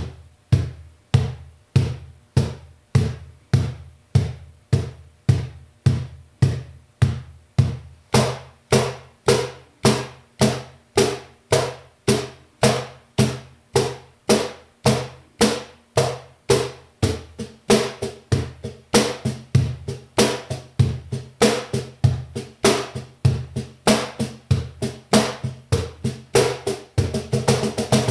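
LA ROSA Studio cajon, a Spanish-made wooden box drum with snare wires, played by hand in a steady beat of about two strokes a second. Deep bass tones alternate with brighter slaps from about a third of the way in, and near the end the strokes come quickly into a dense run.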